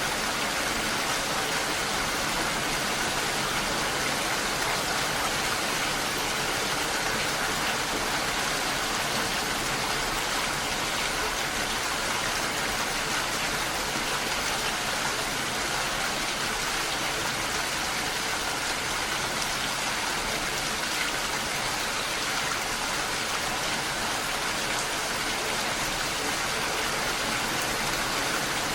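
Steady rain mixed with a waterfall: an even, unbroken hiss of falling and rushing water.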